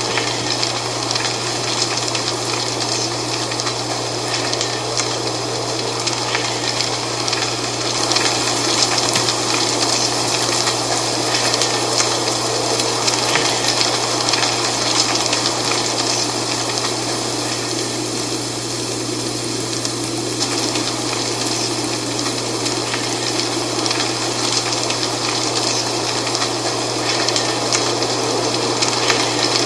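Dry fall leaves rustling steadily in the wind, a continuous crackly hiss that swells slightly now and then, over a steady low hum.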